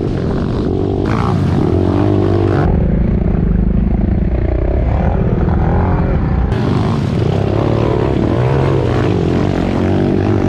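Pit bike engines revving up and down on the track, the pitch rising and falling with the throttle, with abrupt changes in the sound about three and six and a half seconds in.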